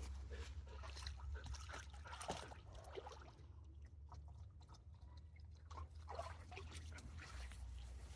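Footsteps crunching and rustling on dry ground, with a steady low rumble underneath; the steps thin out for a couple of seconds midway.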